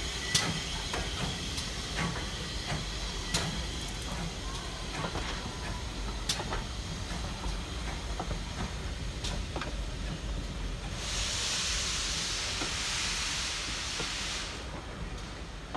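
Steam locomotive at work: scattered metallic clanks and knocks over a low rumble. About eleven seconds in, a burst of steam hiss lasts some three and a half seconds, then stops.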